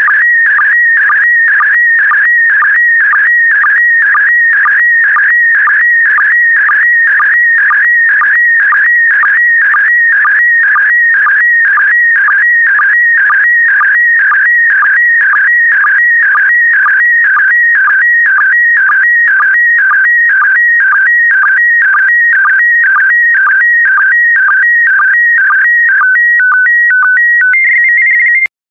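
Slow-scan TV (SSTV) picture signal in PD120 mode: a loud, warbling stream of high audio tones that pulses evenly about twice a second as the image lines are sent. The final lines of the image are going out. Near the end the signal switches to a few short, steady tones and then cuts off.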